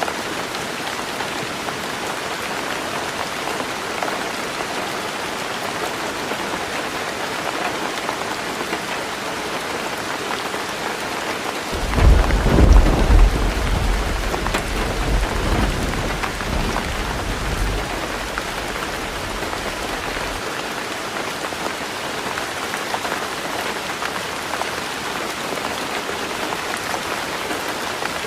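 Heavy rain drumming steadily on a tin roof. About twelve seconds in, a clap of thunder breaks in suddenly and rolls on as a deep rumble that fades away over the next several seconds.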